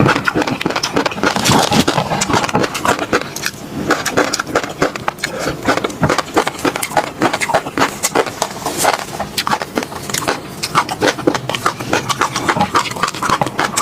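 Close-miked eating of peanut sauce: continuous wet chewing with many quick mouth clicks and smacks at an irregular pace.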